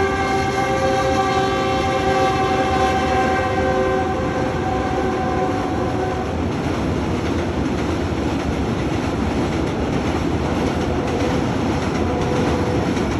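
Train horn held in one long chord that fades out about six seconds in, over the steady rumbling noise of the passing train. A fainter horn tone returns near the end.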